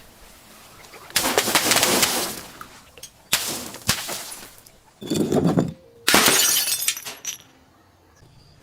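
Glass bottles breaking and shattering in a series of about four loud crashes, one of them a duller crunch.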